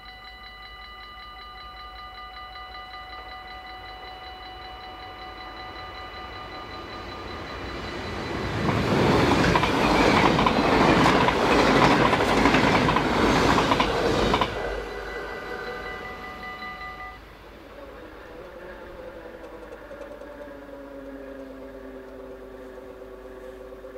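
Level-crossing bells ringing steadily while a double-deck electric passenger train passes over the crossing, loud for about six seconds in the middle, with a run of wheel knocks. The bells stop a few seconds after the train has gone, then the barrier motors hum with a gliding pitch as the booms rise.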